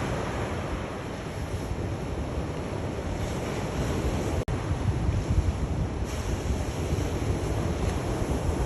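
Sea waves washing onto the shore in a steady surf, with a low rumble of wind on the microphone. The sound cuts out for a split second about halfway through.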